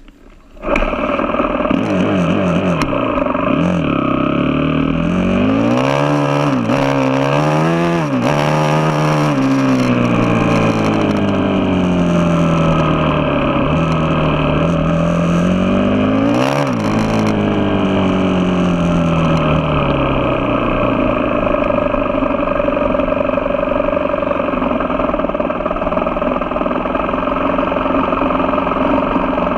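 Motocross motorcycle engine starting up loud under a second in, its pitch rising and falling again and again as it revs up and eases off, then running at a steadier pitch for the last third.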